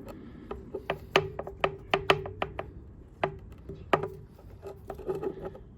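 Irregular sharp metal clicks and taps as an adjustable wrench works the pivot bolt on a pair of Felco No. 2 pruning shears, loosening it to free the small adjusting gear.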